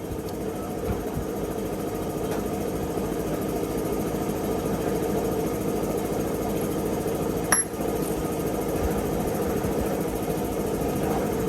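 Husqvarna 365 two-stroke chainsaw engine idling steadily, with one sharp click about seven and a half seconds in.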